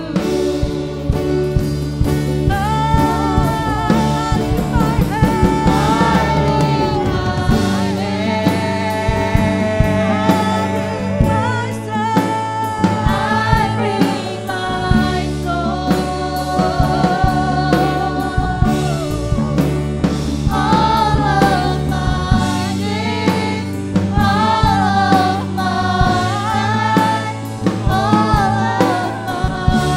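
Gospel praise song performed live by a worship band: sung vocals over bass, keyboards and a drum kit.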